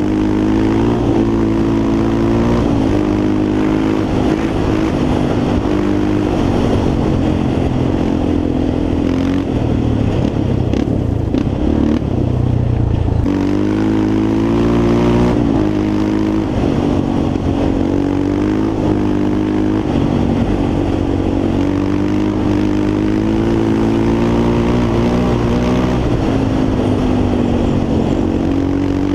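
Yamaha Raptor 350 quad's single-cylinder four-stroke engine running as it is ridden, its pitch rising and falling again and again with the throttle.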